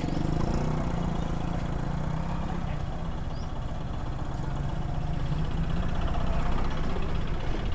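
A motor vehicle's engine running steadily, with road noise, at an even level throughout.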